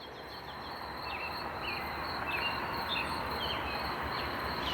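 Outdoor insect chorus: a steady high drone from crickets or similar insects, with a short falling chirp repeated about every half second over a wash of background noise, fading in at the start.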